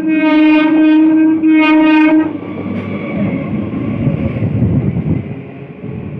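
Electric multiple-unit local train sounding its horn. The first blast ends about a second in, and a second short blast stops a little after two seconds. After that the train runs past with a loud, uneven rumble of wheels and carriages.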